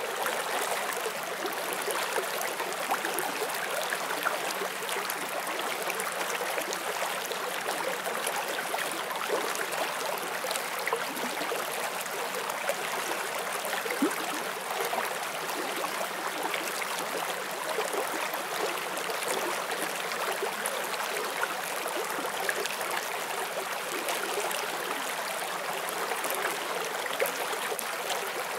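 Shallow forest stream flowing steadily, with a constant rush and small splashes and gurgles as water runs over stones.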